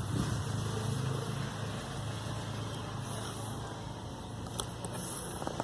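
A steady low, engine-like hum, with a couple of faint crackles near the end.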